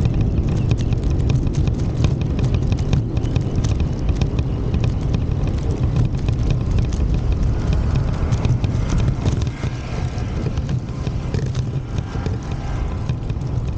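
Footsteps of someone walking, a string of short clicks, over a heavy low rumble of wind on the microphone.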